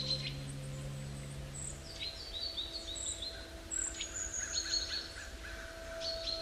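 Forest songbirds singing, several quick series of high chirps and a few whistled notes overlapping, over a soft sustained music drone.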